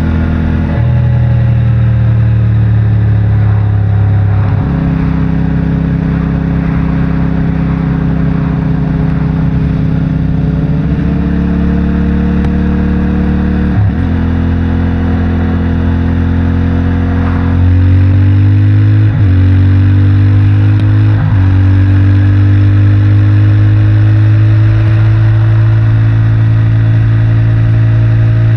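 CFMOTO 450MT's parallel-twin engine through its stock exhaust, riding along. The engine note climbs or settles slowly and steps abruptly in pitch several times as gears change, getting a little louder about two-thirds of the way through.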